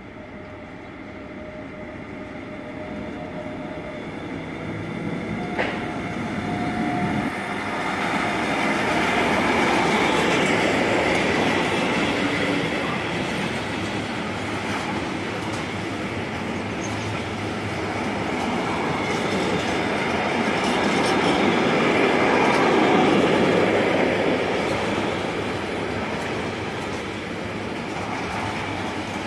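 Intermodal freight train carrying lorry trailers rolling past close by: the rumble of its wagons on the rails builds over the first eight seconds or so and then holds steady, with clickety-clack of wheels over the rail joints.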